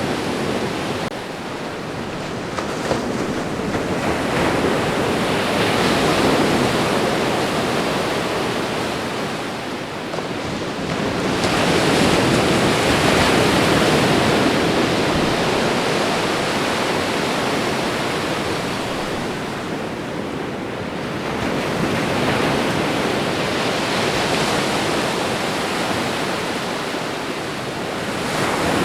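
Ocean waves breaking and washing onto a shore in a continuous rush, swelling and receding slowly about every eight to ten seconds.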